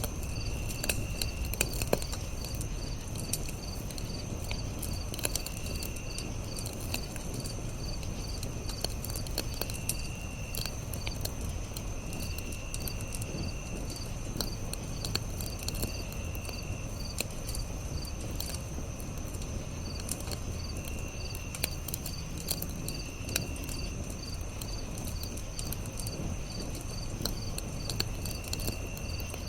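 Campfire crackling, with scattered sharp pops over a low, steady rumble. Crickets chirp steadily and evenly behind it, and a second high trill comes in short spells every few seconds.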